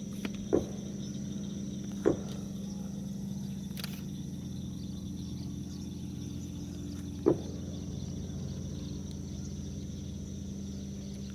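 Marsh evening ambience: a steady high insect drone over a low steady hum, broken three times by brief sharp knocks.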